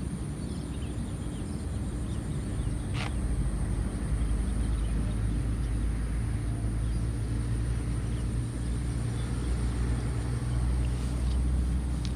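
A low, steady engine hum that grows louder about six seconds in.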